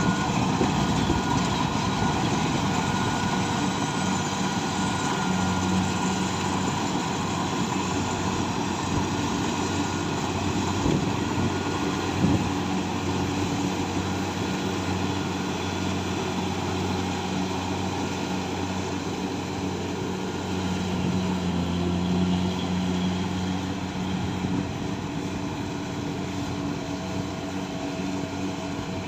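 Kubota combine harvester running steadily in the field, a continuous engine drone with a low hum over the noise of the machinery.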